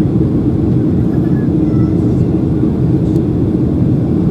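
Steady drone of a Boeing 737-800 in flight, its CFM56-7B engines and the airflow heard inside the passenger cabin, with a low hum running through it.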